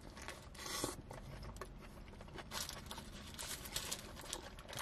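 Biting into a chicken shawarma wrap and chewing it close to the microphone: a few soft, wet chewing noises and small clicks, the strongest just before a second in.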